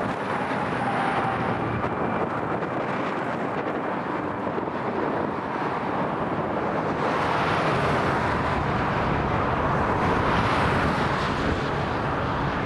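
Freight train crossing a high steel trestle: BNSF diesel locomotives running and hopper cars rolling over the bridge, a steady rumbling noise that grows a little louder about seven seconds in.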